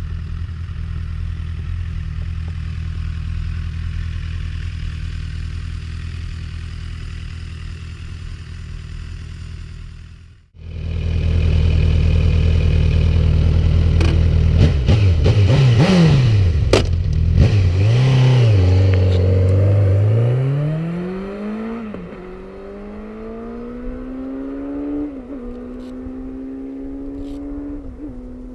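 Honda CB1000R's inline four-cylinder engine on its stock exhaust, idling steadily. After a short break it runs louder, with several quick throttle blips. Then the engine note climbs steadily, with brief small dips along the way.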